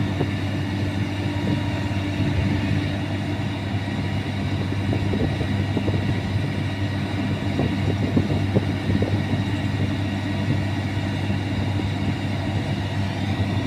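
Sany 155 rotary drilling rig's diesel engine running steadily at a constant pitch, with scattered light knocks.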